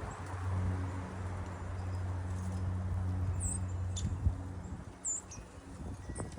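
A low, steady motor-like hum that fades out about five seconds in. Over it, a small bird gives two short, high chirps a second and a half apart, and there is a single sharp click near the middle.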